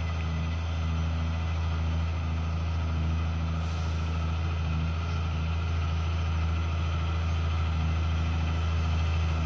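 Heavy diesel truck engine running with a steady low drone, and a short hiss about three and a half seconds in.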